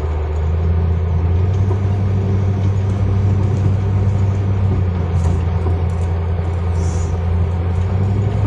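Car driving along: a steady low drone of engine and road noise heard from inside the cabin.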